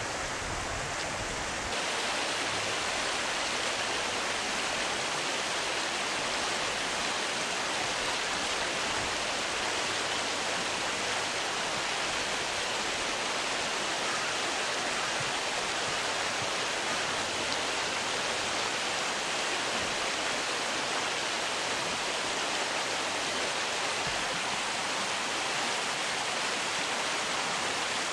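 River water rushing steadily, an even hiss with no pauses; about two seconds in the low rumble drops away and the hiss grows slightly louder.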